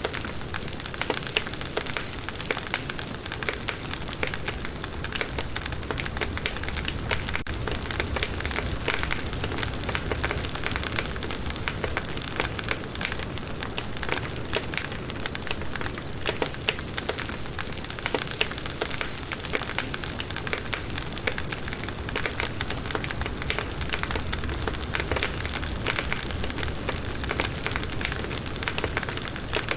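Firewood campfire burning, with a steady rush of flame and dense, continuous crackling and popping of the wood.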